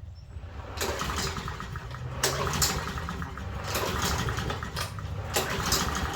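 Troy-Bilt walk-behind lawnmower engine running, with sharp cracks at irregular intervals over the steady low engine sound.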